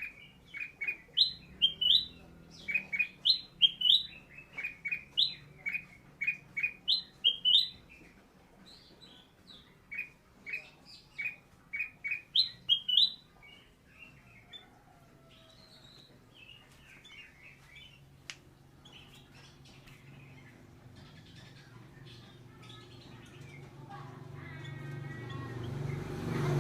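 Sooty-headed bulbul (kutilang) calling: loud, sharp, short notes repeated in quick groups, giving way to softer chirps about halfway through. Near the end a low hum and rising noise swell in underneath.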